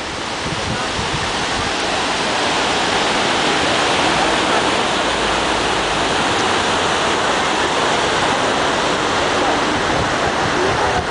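Waterfall's steady rush of falling water, a loud even hiss without let-up that swells slightly over the first couple of seconds.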